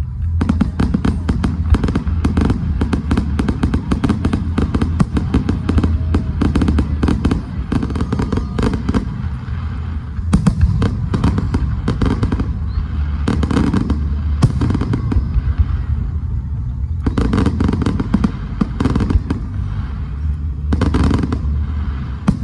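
Fireworks going off: long runs of rapid crackling pops, densest in the first nine seconds and then in shorter bursts about every two to four seconds, over a steady low rumble.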